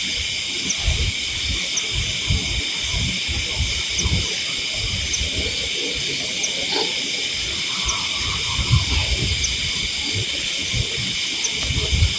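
Steady high-pitched chorus of night insects, an even hiss that does not let up, with faint short ticks about once a second above it. Scattered low thumps and rustles sound close to the microphone.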